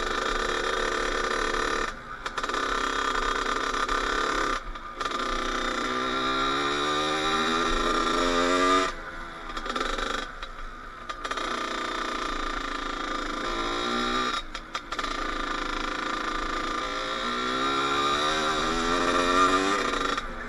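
Kawasaki KX80 two-stroke dirt bike engine under way, revving up in several rising pulls with brief drops between them.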